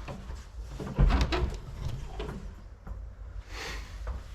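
A heavy thump about a second in, followed by a few sharp clicks and knocks, then a short rustling hiss near the end.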